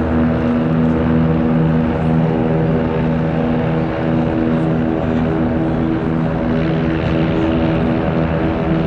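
Piston engine of a World War I replica propeller aircraft running steadily, its note holding one pitch, with a low throb that slowly swells and fades.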